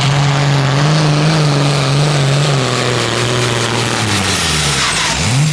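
Pulling tractor's engine running hard at high revs with a high whine above it; about halfway through the pitch sags, then it climbs quickly back up near the end.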